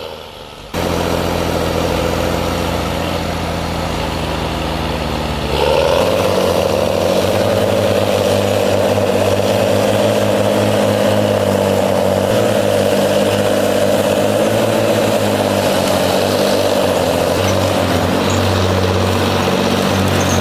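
Heavy vehicle engine running steadily. It cuts in abruptly about a second in, and about six seconds in it changes to a louder, higher engine note that holds to the end.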